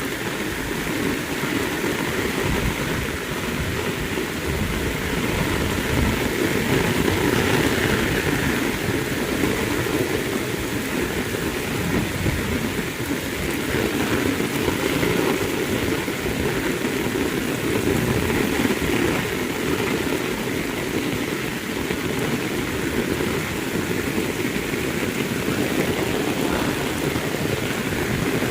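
Heavy rain falling steadily, an even wash of noise with no breaks or separate events.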